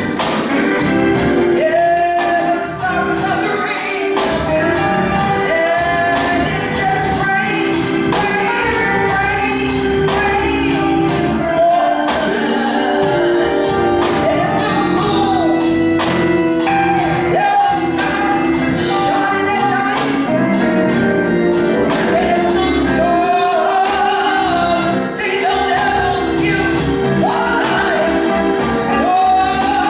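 Gospel music: male and female voices singing over a band with percussion.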